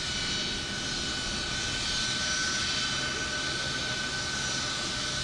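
Aircraft engine running steadily, a dense rush with a constant high whine over it.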